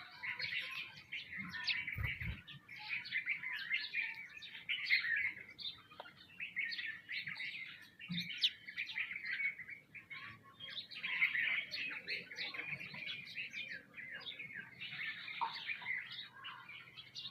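A flock of small birds, sparrows among them, chirping continuously, with many calls overlapping. A brief low thump comes about two seconds in.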